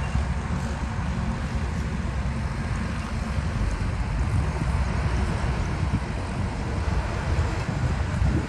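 Heavy diesel machinery engine running with a steady low rumble.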